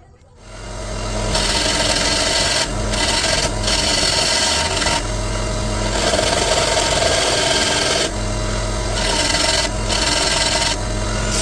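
Abrasive work on the metal of a vintage vice: a loud, continuous rasping scrape with a low motor-like hum beneath it, broken by several brief pauses.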